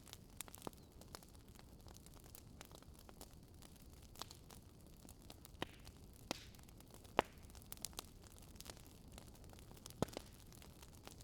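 Burning wood logs crackling: a faint steady hiss with sharp pops and snaps at irregular intervals, the loudest about seven seconds in.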